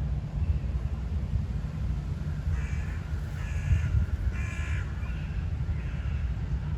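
A bird calling four or five times in quick succession, starting about two and a half seconds in, over a steady low rumble of wind on the microphone.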